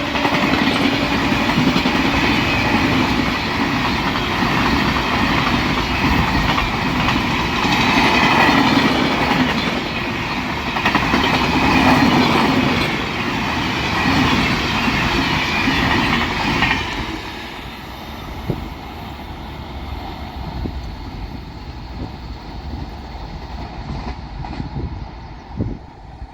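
Indian Railways express train passing at speed, its coaches' wheels clattering over the rail joints in a loud, continuous rush. About 17 seconds in the last coaches pass and the sound drops to a fading rumble with a few scattered clicks.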